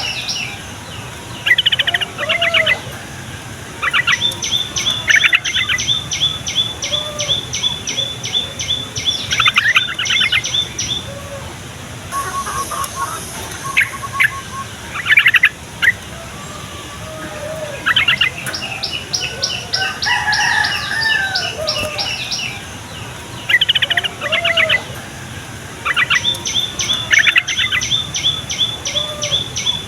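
Yellow-vented bulbul (trucukan) singing: fast runs of short, sharp high notes in bouts a few seconds long, broken by lower warbled phrases.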